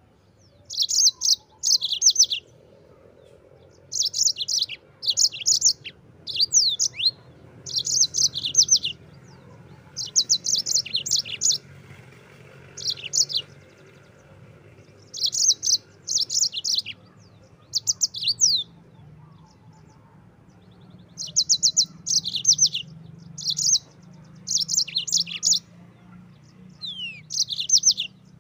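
Yellow-fronted canary (Mozambique canary) singing: repeated bursts of rapid, high trills and quick falling notes, each phrase lasting a second or two, with short pauses between phrases.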